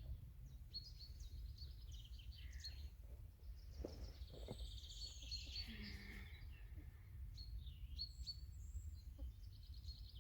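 Wild songbirds chirping and trilling over a steady low background rumble.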